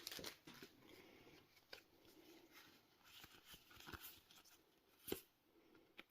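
Near silence, broken by a few faint soft clicks and rustles of trading cards being handled, about two, four and five seconds in.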